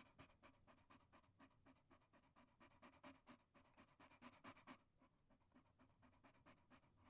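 Chihuahua panting quickly and quietly, about five short breaths a second, easing off a little after about five seconds.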